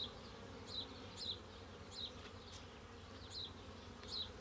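Honeybees humming steadily around an open hive. Short, high chirps repeat every half second or so over the hum.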